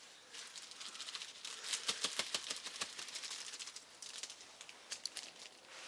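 Faint, irregular light tapping and rattling of a container of ant powder being shaken out to sprinkle diatomaceous earth onto ant mounds, dying away near the end.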